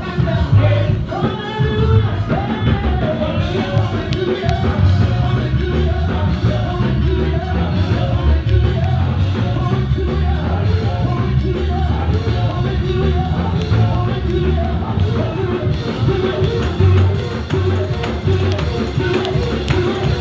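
Live church music with a band and singing voices, loud and continuous with a steady bass beat.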